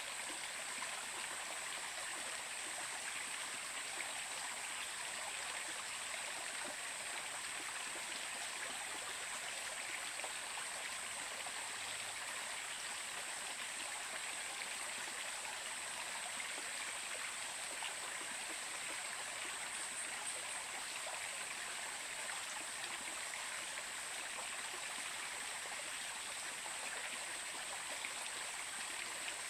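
Stream water flowing steadily, an even rushing with a steady high-pitched hiss on top.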